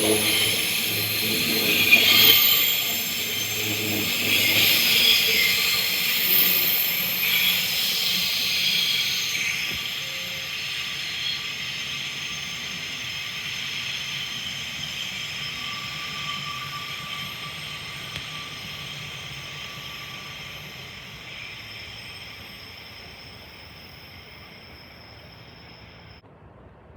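An electric suburban train running past on the track, with wheel and rail noise and a high steady whine, fading steadily as it moves away. The high whine cuts off suddenly near the end.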